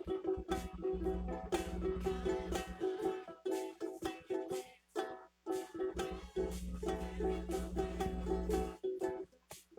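Acoustic string instrument strummed in a steady rhythm of repeated chords, with brief pauses between phrases. A low rumble sits under the strumming twice.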